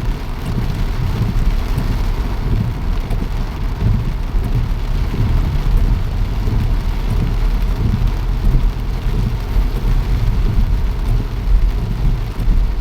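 Steady rain falling, under a continuous low rumble.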